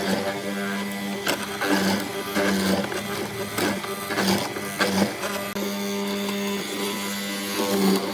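Small electric motor of a power tool running steadily, its hum dipping briefly a few times, with scattered sharp knocks over it.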